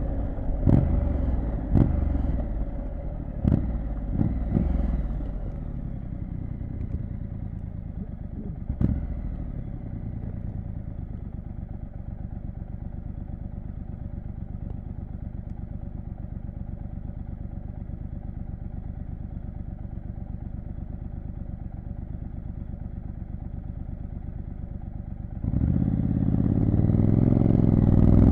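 Triumph Street Scrambler 900's 900 cc parallel-twin engine running at low, steady revs, with a few sharp knocks and clunks in the first nine seconds. About three seconds before the end the throttle opens and the revs climb as the bike accelerates.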